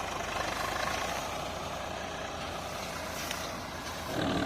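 Swaraj 855 tractor's diesel engine running steadily, a low even hum, while hauling a loaded trolley in mud.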